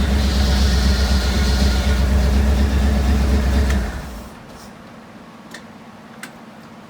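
1974 Ford F100 pickup engine idling steadily, then shut off about four seconds in, leaving a few faint clicks.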